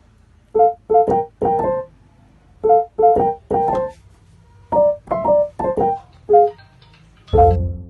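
Background music: a piano or electric keyboard playing short phrases of separate notes in groups of three or four, ending on a fuller, lower chord near the end.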